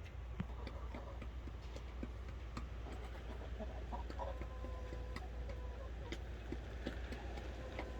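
Chickens clucking, with many short scattered clicks such as pecking at feed. About halfway through, a thin steady tone joins and holds to the end.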